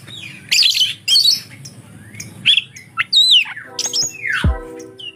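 An oriental magpie-robin (kacer) calling in short bursts of sharp chirps and whistles, a song that mixes in mimicked lovebird calls. Near the end, background music with a deep beat comes in.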